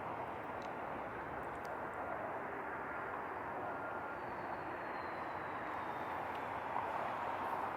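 Steady outdoor background rumble, even in level and without distinct events, like distant traffic or machinery.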